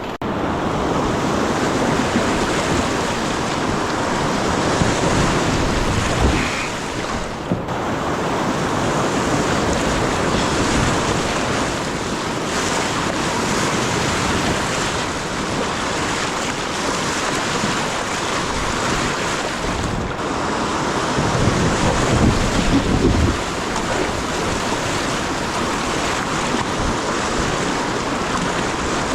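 Steady rush of fast river water through a rapid, with wind buffeting the microphone and a couple of louder low gusts.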